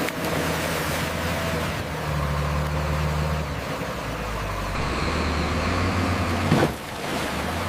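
A heavy vehicle's engine running steadily, a low hum under a rushing noise. About six and a half seconds in there is a brief louder surge, then the sound drops suddenly.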